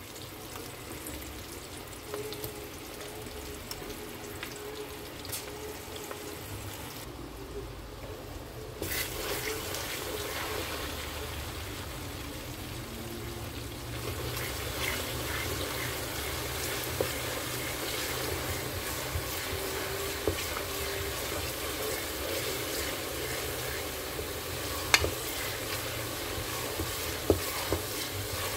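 Sliced onions and tomato paste frying in hot vegetable oil in a metal pot, a steady sizzle that grows louder about halfway through, with a wooden spoon stirring and now and then clicking against the pot.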